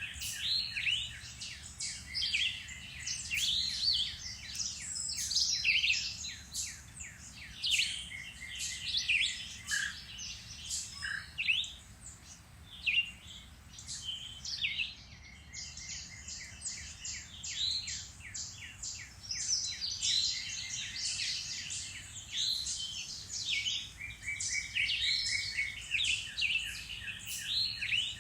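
Woodland birds in late spring singing and chirping, many voices overlapping in a dense, unbroken chorus of short chirps and trills.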